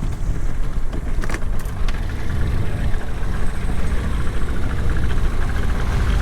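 A boat's motor running steadily while under way, with a heavy low rumble and a couple of sharp knocks a little over a second in.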